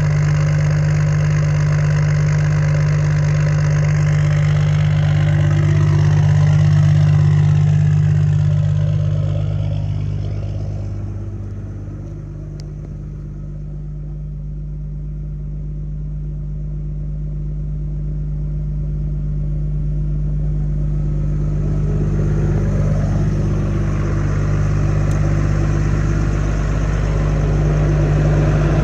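6.7 Cummins turbo-diesel straight-six running cold after a 13°F start without a grid heater, a steady low engine drone. Its sound swells slightly a few seconds in, turns quieter and duller in the middle, then builds back up near the end.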